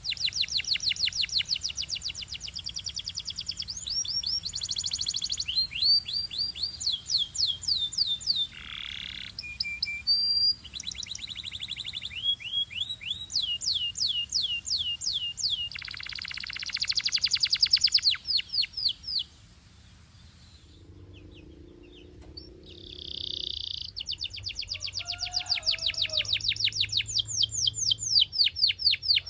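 Belgian canary singing long rolling trills of fast, evenly repeated notes, switching from one trill pattern to the next every second or two. The song breaks off for about two seconds about two-thirds of the way through, then resumes.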